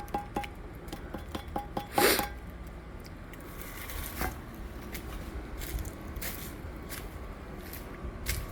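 A small grease-catch container being rapped to knock the grease out: quick ringing metal taps that die out in the first half second, a few more taps, then a louder clatter about two seconds in, followed by scattered light knocks and handling.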